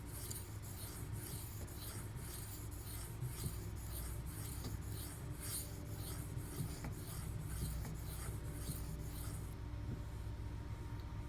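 D2 steel blade of a Brous Bionic XL knife being stroked back and forth across a wet sharpening stone, a rhythmic scraping of about two strokes a second that stops shortly before the end.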